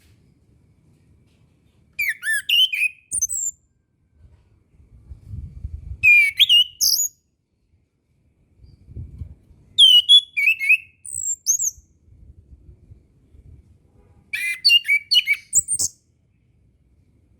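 Chestnut-capped thrush singing: four short phrases of quick, high whistled notes with fast rising and falling slides, each phrase lasting a second or so and separated by pauses of a few seconds.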